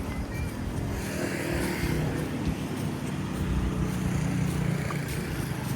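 A motor vehicle's engine running close by, a steady low hum that builds from about a second in and stays loud.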